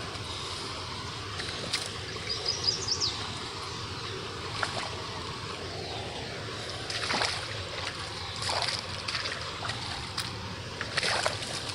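A truck running through mud and water, with its engine going steadily under splashing and sloshing, and a few short splashes or knocks.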